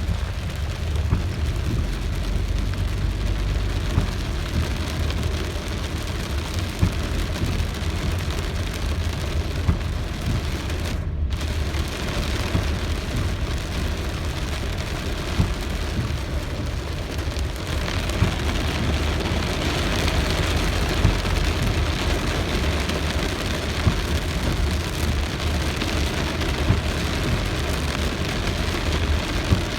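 Steady rain falling, with scattered sharp drop hits over a constant low rumble. The hiss cuts out for a moment about eleven seconds in, and the rain grows heavier and brighter from about eighteen seconds in.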